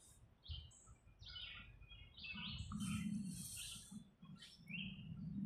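Small birds chirping: many short, quick notes, some sliding in pitch, over a faint low rumble that grows from about two seconds in.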